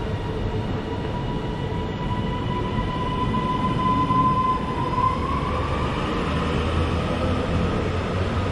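Northern Class 331 electric multiple unit pulling out of the station: its traction motors give a steady whine that steps up in pitch about halfway through as it gathers speed, over a low rumble of wheels on rail.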